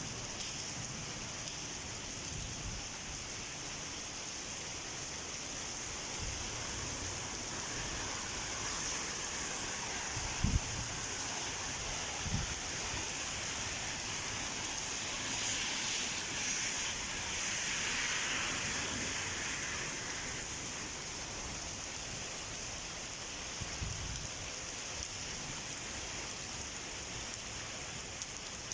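Heavy rain falling steadily, with a broad swell partway through and two short low thumps a little before the middle.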